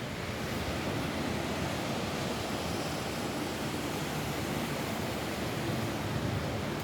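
Steady rain falling on a roof, an even rushing hiss with no separate drops standing out.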